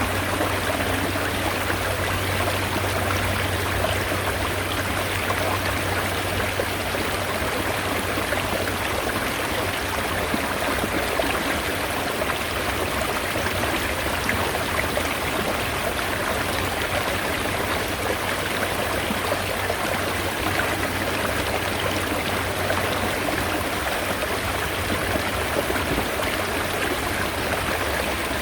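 Mountain stream flowing steadily, an even rushing and trickling of spring-fed water over rocks.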